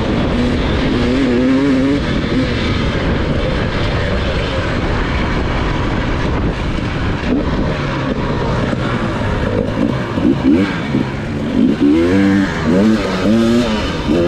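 Dirt bike engine revving up and down while riding, its pitch rising and falling repeatedly in the last few seconds, over a steady rush of noise.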